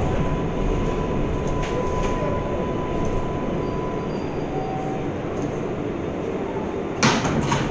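New York City 7 subway train heard from inside the car: a steady rumble of the train running, with a faint steady whine that fades out about halfway through. A sudden loud noise comes near the end.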